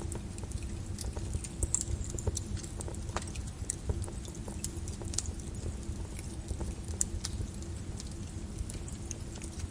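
Lava flow crackling, with scattered sharp clinks and snaps at irregular intervals over a steady low rumble.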